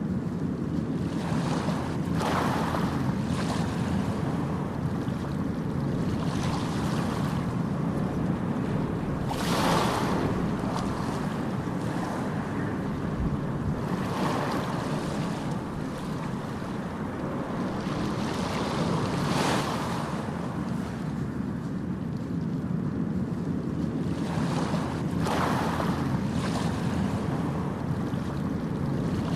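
Ocean surf: a steady low rumble with waves breaking and washing in every few seconds.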